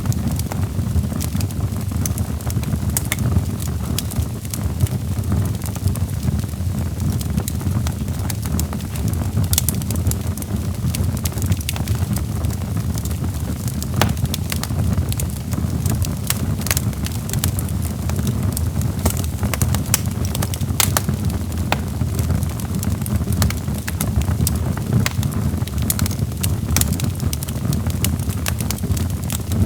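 Log fire burning in a fireplace: a steady low rumble of the flames with frequent sharp crackles and pops from the burning wood, scattered irregularly throughout.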